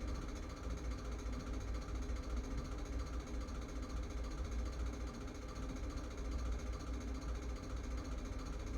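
A steady low buzzing hum, strongest in its deep bass, running without a break.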